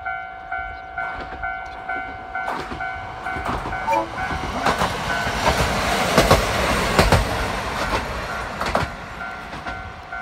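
Level-crossing warning bell ringing about twice a second while a single-car diesel railcar passes close by. The train sound builds to its loudest midway, with sharp clicks from the wheels over rail joints, then fades as it moves away.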